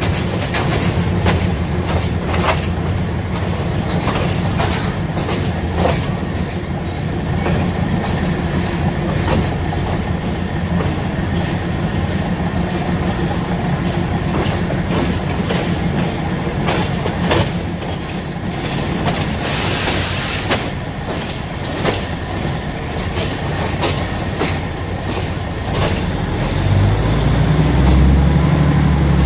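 Passenger train rolling slowly through a rail yard, heard from an open carriage window: a steady rumble with irregular clicks and clacks as the wheels cross rail joints and points. A brief hiss comes about twenty seconds in, and a deeper engine drone swells near the end.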